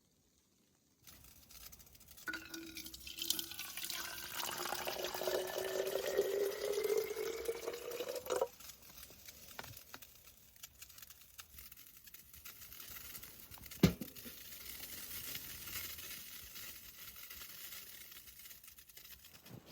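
Liquid pouring into a container, its pitch rising steadily as the vessel fills, then stopping abruptly. A single sharp knock comes a few seconds later.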